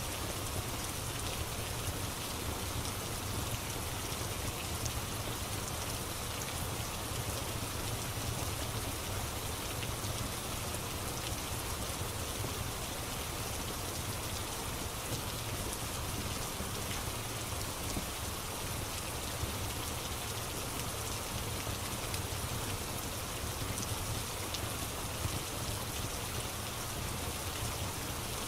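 Steady rain falling, with faint scattered crackles of a wood fire.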